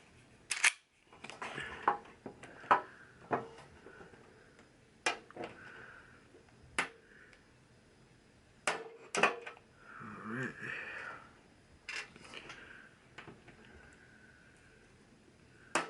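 Irregular sharp clicks and taps of hard plastic and metal parts being handled, with light rubbing between them: an opened LED TV's backlight parts being moved and worked on.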